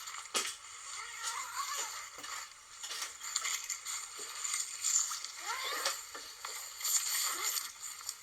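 Tent fabric rustling and scraping as the tent door is handled and closed, with a sharp click near the start and a couple of short rising zip-like sweeps.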